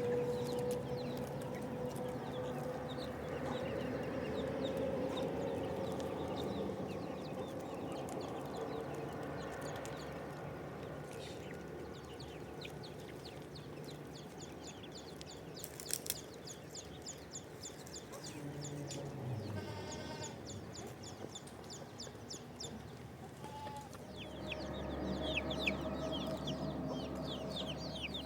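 Chickens clucking, with many short high peeps throughout. Near the end a low rumble comes in and the peeps grow denser.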